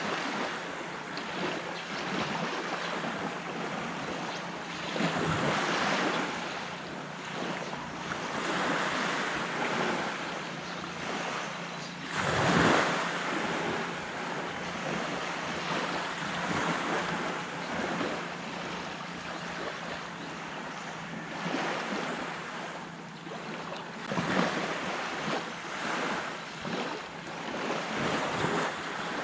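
Sea waves breaking and washing up a beach in repeated swells, the biggest about twelve seconds in. A faint steady low hum runs underneath.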